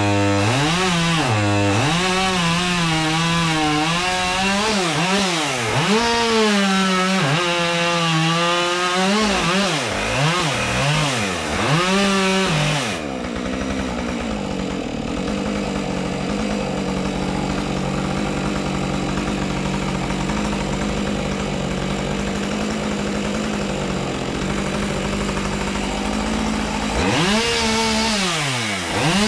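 Two-stroke chainsaw cutting wood, its engine pitch dipping and climbing again and again under load, then dropping to a steady idle about halfway through. It revs up again near the end.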